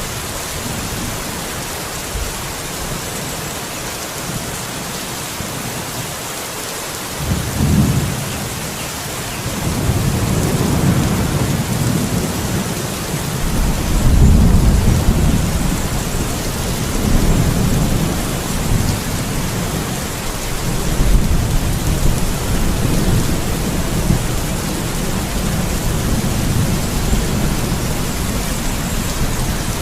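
Steady rain with rolling thunder: a short rumble about eight seconds in, then long low rolls of thunder from about ten seconds on, loudest a few seconds later.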